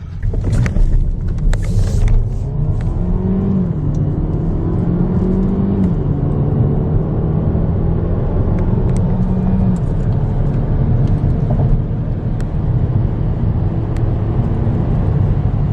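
Kia Stinger's engine under hard acceleration, its note climbing and then dropping twice in the first several seconds as the gearbox shifts up, then holding steady over road and tyre rumble.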